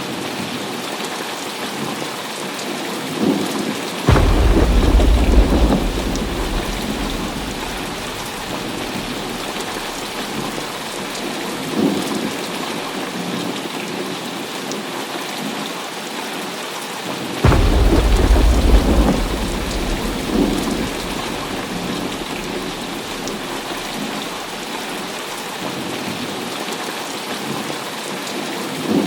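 Heavy rain falling steadily, with two sudden thunderclaps, about 4 seconds in and again about 17 seconds in, each rumbling on for a couple of seconds. Fainter thunder rumbles come between them.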